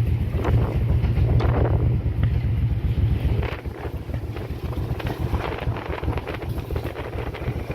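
Motorcycle engine running at a steady speed under heavy wind rush on the rider's microphone; the wind eases and the sound gets quieter about halfway through.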